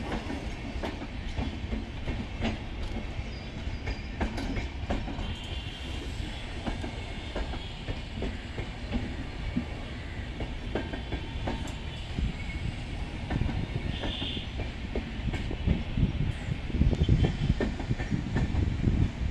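Indian Railways LHB passenger coaches rolling slowly backward over the track: a steady low rumble with the wheels clacking over rail joints at irregular spacing. Two brief high squeals come about six and fourteen seconds in, and the rumble grows louder near the end.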